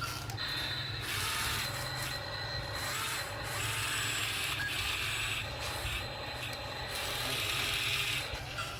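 Excavator working: a steady low hum with a mechanical hiss that swells and fades in the upper range every second or so.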